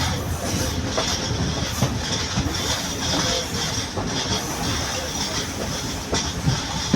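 Class S11 diesel multiple unit train running on the rails: a steady rumble with occasional sharp clicks of the wheels over rail joints.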